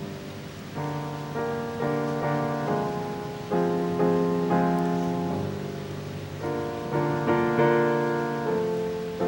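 Jazz piano music: chords struck one after another, each ringing and fading before the next.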